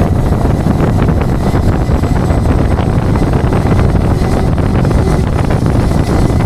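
Tow truck driving along the road: a steady low engine and road rumble, with wind noise on the microphone.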